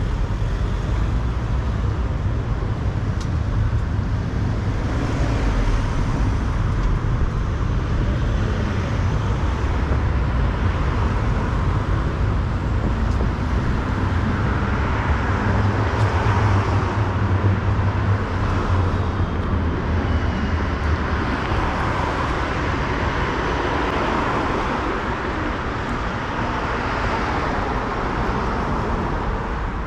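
City street traffic: a steady rumble of road vehicles, with one vehicle passing close and louder about halfway through.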